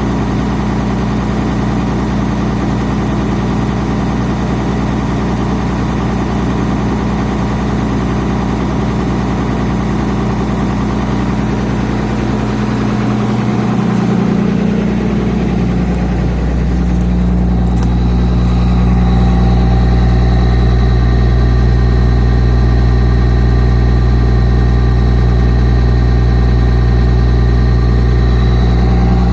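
1999 Dodge Ram 2500's 5.9L Cummins turbodiesel inline-six idling while it warms up after a cold start. About halfway through, the engine note shifts and becomes a little louder, and a faint high whine joins it.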